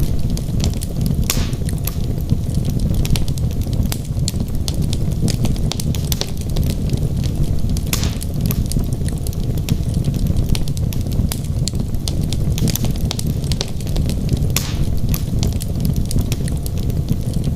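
Wood logs burning in a fireplace: a steady low roar of flame under frequent sharp crackles and pops, with a few louder pops now and then.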